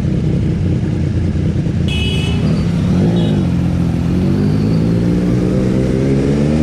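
Motorcycle engine running at speed on the road; its pitch drops about three seconds in, then rises steadily as the bike accelerates.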